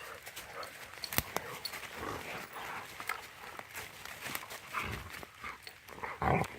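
Rottweilers playing: irregular dog sounds with scattered sharp clicks and knocks, and the loudest burst about six seconds in.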